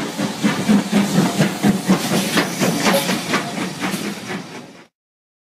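Train running sound: a steady hiss with rapid, regular beats, about four a second, that fades and cuts off near the end.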